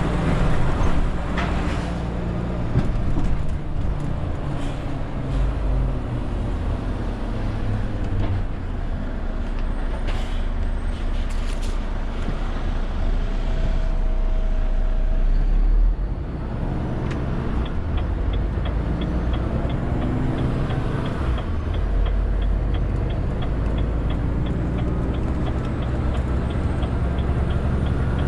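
Renault T520 truck's diesel engine running on the road while hauling a 40-tonne load, its pitch shifting as it pulls. In the second half a steady ticking comes in at about three ticks a second.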